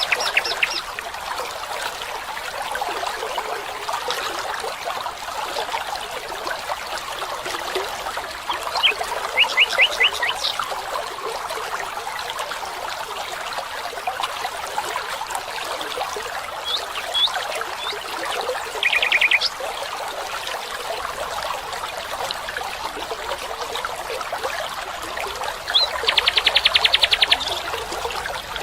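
Running water from a stream, steady throughout, with birds calling now and then over it: a run of quick chirps about nine seconds in, a short buzzy trill around nineteen seconds, and a fast trill near the end.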